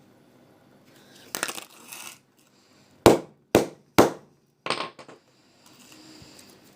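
A mobile phone struck three times in quick succession, sharp hits about half a second apart, then a lighter knock; handling noise comes before the hits.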